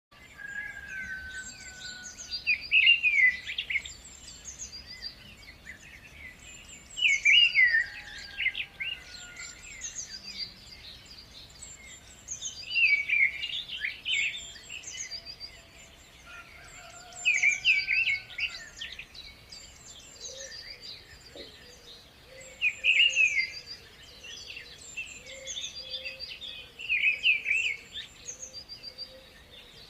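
Birds singing: one bird repeats a loud, fast phrase of notes about every five seconds over a continuous chorus of higher chirps from other birds.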